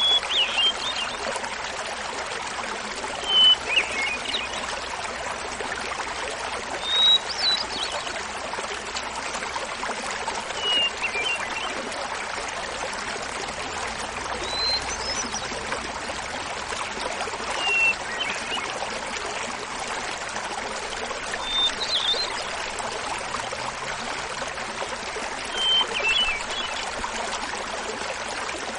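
Hermit thrush singing over the steady babble of a small waterfall. It gives about eight flute-like phrases, one every three to four seconds, each a held opening note followed by a quick ringing flourish, pitched higher or lower from phrase to phrase.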